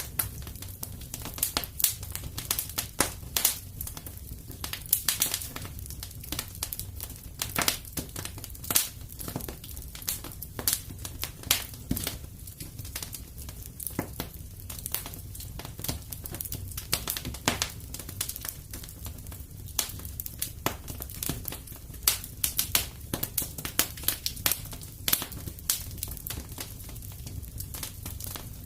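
Wood fire burning in a fireplace: a steady low rumble under irregular sharp crackles and pops, several a second.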